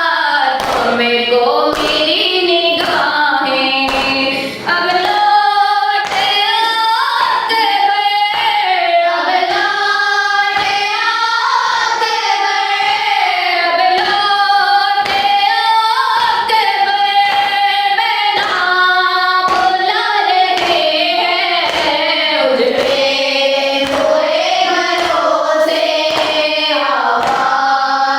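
Noha, a Shia lament, sung in a slow melodic line with group voices, over a steady beat of hand slaps on the chest (matam) somewhat over once a second.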